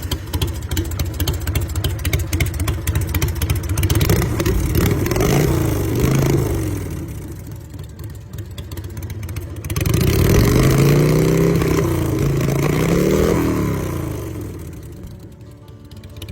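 Big Bear Choppers Venom Pro Street chopper's 1,680 cc V-twin running at a rapid pulsing idle, revved twice, about four seconds in and again about ten seconds in, the pitch climbing and falling back each time.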